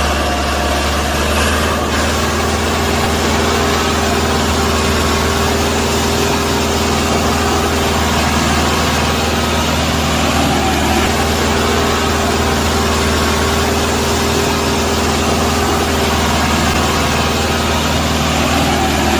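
An engine idling steadily, a continuous low drone with an even hum and no revving.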